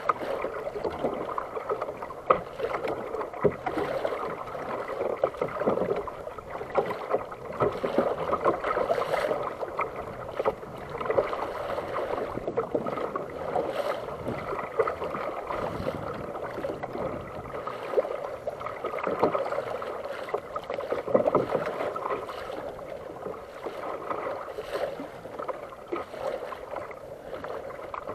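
Water washing and lapping against a fishing kayak's hull, an uneven wash with scattered small knocks.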